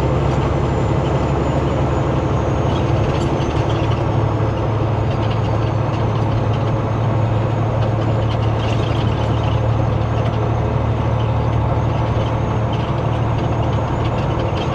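Semi-truck engine running steadily at highway speed with road noise, heard inside the cab, a low steady drone with a few short rattles.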